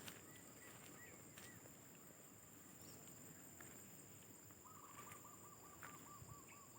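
Faint outdoor ambience with distant birds calling: a few arched chirps at the start, then a quick run of repeated chirping notes from past the middle to the end. A steady high hiss, like insects, runs underneath.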